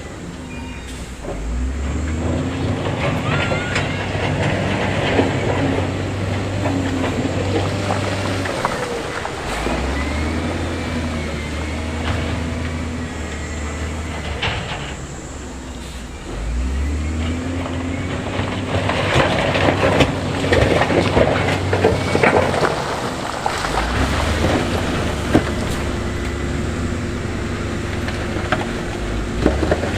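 Heavy earthmoving machine's diesel engine working under load, revving up about four times. Between the revs come stretches of stone clattering and rattling.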